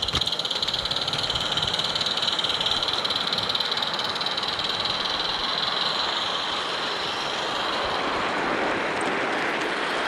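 Small live-steam garden-railway train running along the track: a steady rolling rush with a fast, fine flutter high in pitch, easing a little near the end.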